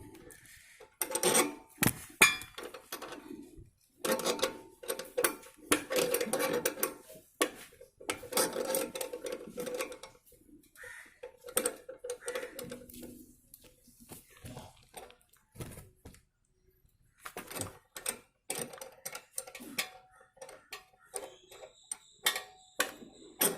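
Metal clinks, taps and clicks of tools working the rear brake adjuster on a Royal Enfield 350 as the brake is tightened, in irregular bursts with short pauses.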